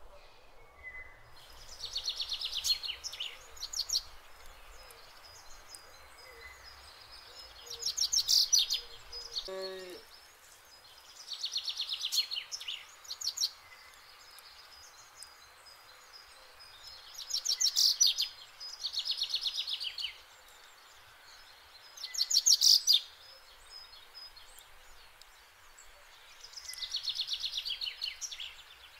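A songbird singing short, fast trilled phrases, about seven in all, a few seconds apart, over a faint steady outdoor hiss.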